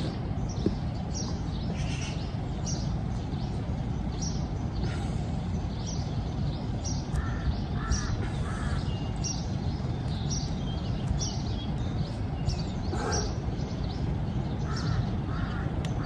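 Birds calling: a few short calls in a row about halfway through and again near the end, with quick chirps throughout, over a steady low rumble.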